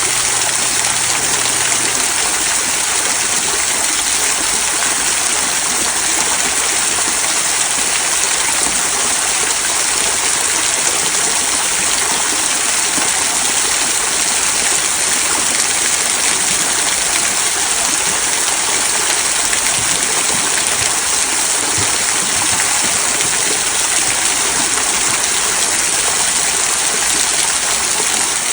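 Small waterfall trickling over mossy rocks into a stream, a steady, even rush of water with a bright hiss.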